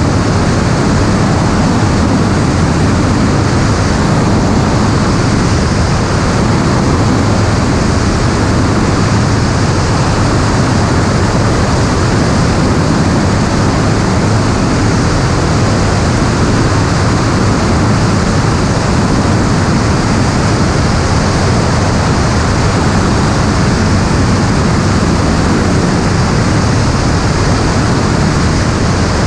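Steady, loud rushing noise of an aircraft in flight, its motor drone and wind on the onboard microphone blending into one even roar with a faint low hum underneath.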